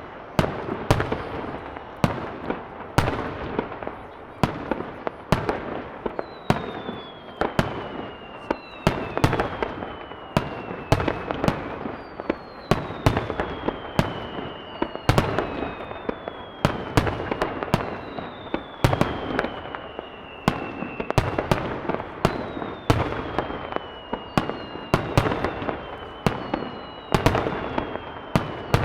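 Aerial fireworks shells bursting in rapid nonstop succession, about one or two sharp bangs a second, with crackling in between. From about six seconds in, whistles falling in pitch repeat every second or two over the bangs.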